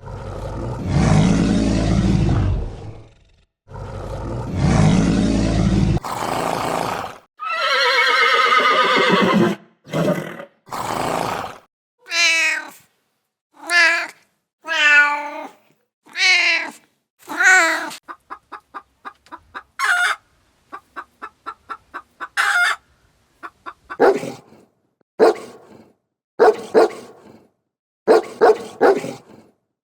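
A string of animal calls. Two long, deep, rough roars open it, then a long call with falling pitch, then many short pitched calls, with a quick run of very short pulses a little past the middle.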